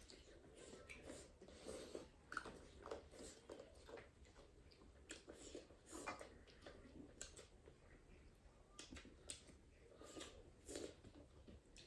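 Faint chewing and biting as duck curry is eaten, with scattered small clicks and mouth smacks.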